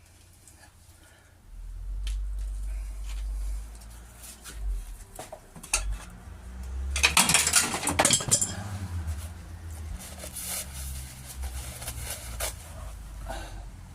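Metal tools and engine parts clinking and knocking as they are handled, over a low rumble, with a louder rush of scraping noise about seven seconds in that lasts a second and a half.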